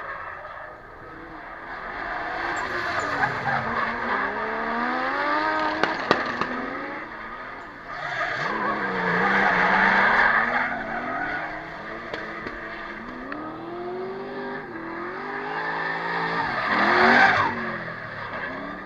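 Drift car engine revving up and down as the throttle is worked, with tyres squealing through the slide. It swells loudest about halfway through and again near the end.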